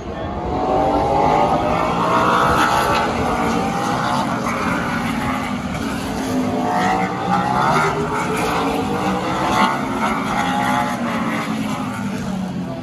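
Stock car racing V8 engines at speed, several cars' engine notes rising and falling in pitch as they go by in two waves.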